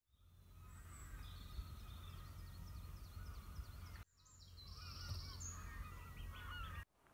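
Woodland birdsong, several small birds chirping and trilling, over a steady low rumble. The sound breaks off abruptly twice, about 4 seconds in and again near the end, where short clips are cut together.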